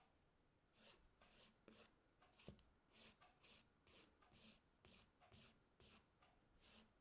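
Nail file scraping across a fingernail in short, faint repeated strokes, about two a second, with one sharp click about two and a half seconds in.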